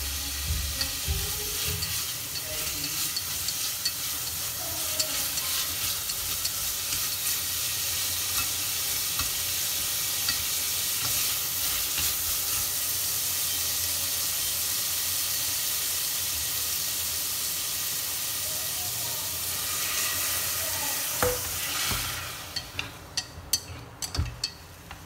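Shrimp and garlic sizzling in hot fat in a stainless steel pot, stirred with chopsticks, in a steady frying hiss. About 22 seconds in the sizzle fades, and a few sharp clicks and knocks follow near the end.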